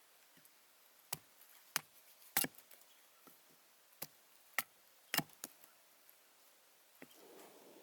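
Firewood giving a series of sharp, irregular wooden cracks, about seven spread over five seconds. A soft steady noise comes in near the end.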